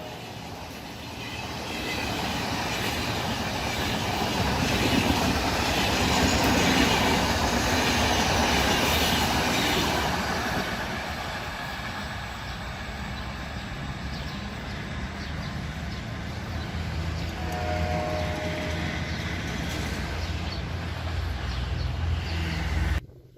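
Egyptian National Railways diesel-hauled train running past on the track, loudest about a third of the way in, with a steady low engine drone under the rush of the wheels. The sound cuts off suddenly near the end.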